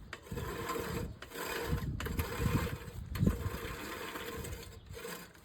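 Lawn mower running steadily with a continuous hum, while wind buffets the microphone in uneven low gusts.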